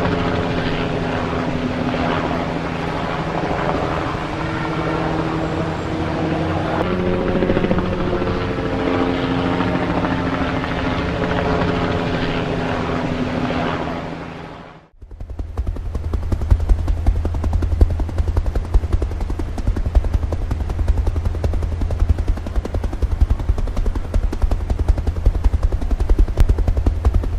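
Helicopter sound in two clips. First a steady engine whine with rotor noise whose pitch shifts partway through. Then, after a brief cut about halfway, a rapid, heavy low rotor beat.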